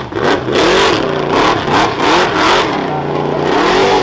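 Modified 2005 Chevy Colorado rough truck's engine revving hard on a timed dirt-course run, the revs rising and falling several times as the driver works the throttle.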